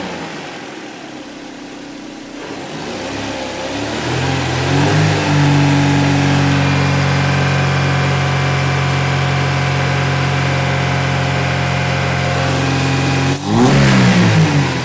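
Mercedes-Benz 124's two-litre M102 four-cylinder petrol engine with KE-Jetronic mechanical injection being revved. The revs fall back, climb again about four seconds in and are held steady for about eight seconds, then a quick blip near the end and the revs drop away.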